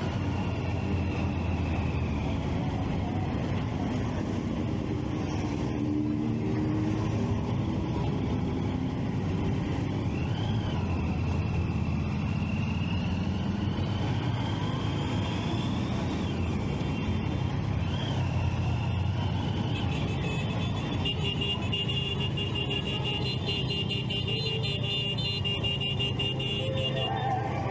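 Triumph Street Triple 675 three-cylinder engine running steadily under way, with road and traffic noise. A few brief rising-and-falling high tones sound, and a fast, high repeating beeping runs through the last several seconds.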